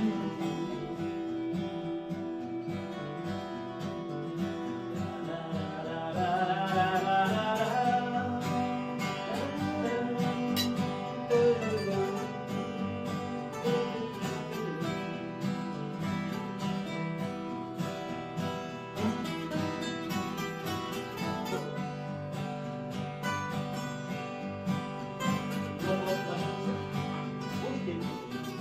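Music: acoustic guitar playing an instrumental break between sung verses, with a melodic lead line gliding up and down from about six to twelve seconds in.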